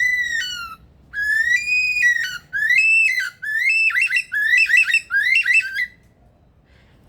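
Male superb lyrebird singing a run of loud, pure whistled phrases in its mimicry display. The first phrases are rising whistles; the later ones break into quick up-and-down warbling trills, and the song stops about six seconds in.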